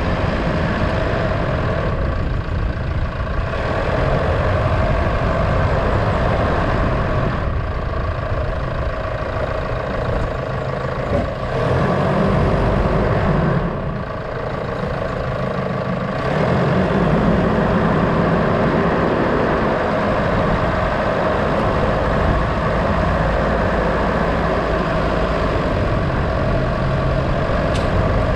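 A vehicle's engine running with road and wind noise, easing off about halfway through and picking up again a couple of seconds later.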